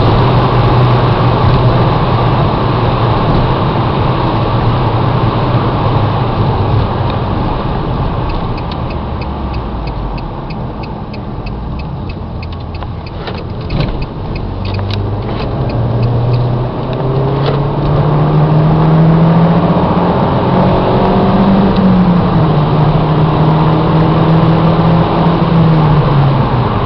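Renaultsport Mégane 225's 2.0-litre turbocharged four-cylinder under way at speed. It runs steadily, then eases off, sinking in pitch and level. About 14 seconds in there is a thump, then the engine pulls and rises in pitch until an upshift about 22 seconds in, holds a steady note, and eases off near the end.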